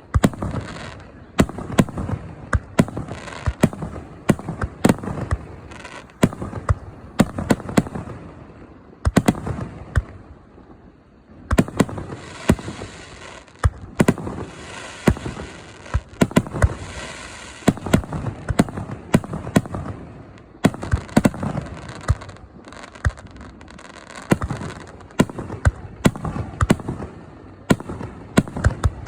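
Aerial firework shells bursting in rapid, irregular succession: many sharp bangs, often several a second, with a lull of about a second before the middle and a few seconds of continuous hiss between the bangs in the middle.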